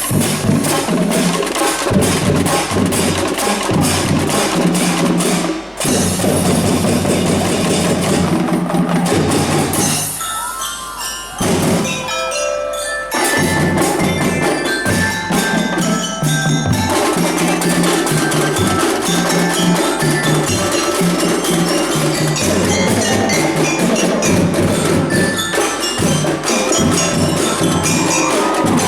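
A school drum band playing: drums and rapid percussion with a bell-like melody on glockenspiel-type mallet instruments. About ten seconds in the drums drop out briefly, leaving a few bell notes, and the full band comes back in about three seconds later.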